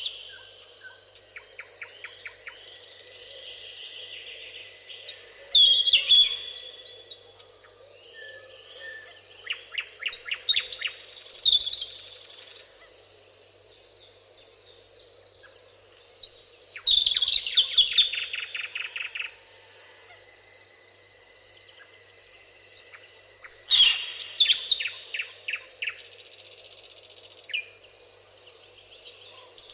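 A songbird repeating the same short song about every six seconds: a loud opening note followed by a fast trill. Fainter chirps from other birds come between the songs, over a steady soft background hiss.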